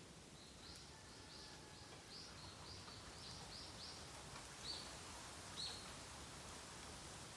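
A small bird calling: a quick run of short high chirps, about four a second for some four seconds, then two louder separate notes, over a faint steady outdoor hiss.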